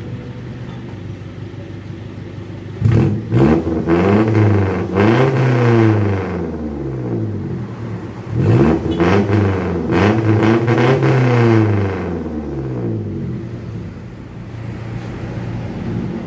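Suzuki Futura injection's engine breathing through an HKS Hipower racing muffler, idling and then revved up and back down, a pair of revs about three seconds in and another pair about eight seconds in, settling back to idle near the end. The straight-through racing exhaust is very loud.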